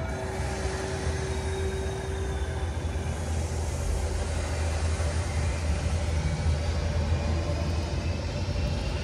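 Steady rain hiss over a constant low rumble, with a faint held tone in the first few seconds.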